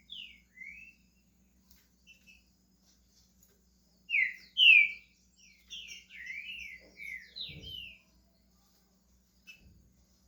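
Green-winged saltator (trinca-ferro) singing: two short downslurred whistled notes at the start, then after a pause a loud phrase of quick descending whistled notes from about four seconds in to about eight. A brief low thump comes near the end of the phrase.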